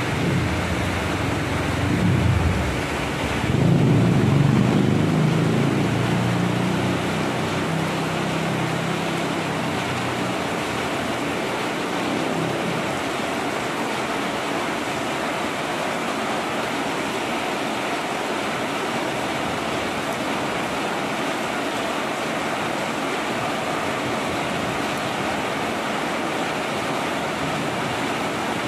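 Heavy rain pouring down steadily. A low rumble rises about two seconds in, is loudest a few seconds later, and fades away by about ten seconds.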